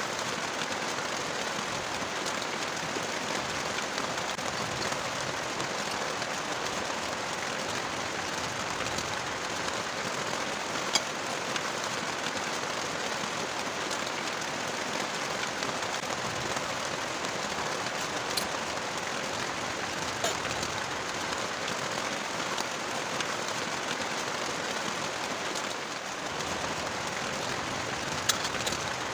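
Heavy rain falling steadily, with a few sharp drops ticking louder now and then.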